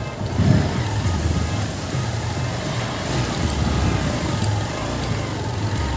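Motorcycle running steadily while riding, with a low engine rumble and road and wind noise.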